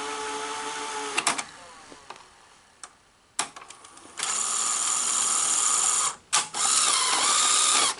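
Sony SL-HFR30 Betamax video recorder's mechanism. A steady running hum stops with a clunk about a second in. After a few clicks, a small motor whirs for about two seconds, pauses briefly, and whirs again.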